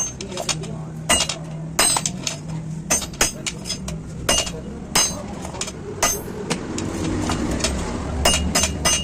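Hammer tapping on metal motorcycle wheel parts: an irregular series of sharp clinks, some with a brief metallic ring.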